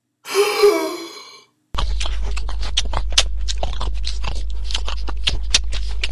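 A brief voice-like sound, then from just under two seconds in, loud, steady chewing of a sandwich: a stream of irregular wet clicks and crunches over a constant low hum.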